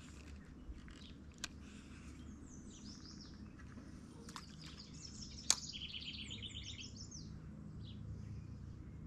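Birds singing and chirping faintly, with a quick trill of repeated notes about six seconds in. A few short clicks, the sharpest about five and a half seconds in, over a steady low hum.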